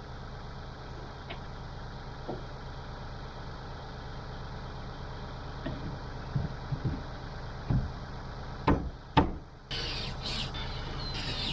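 A small engine or motor running steadily, with a few soft knocks and then two sharp cracks about nine seconds in.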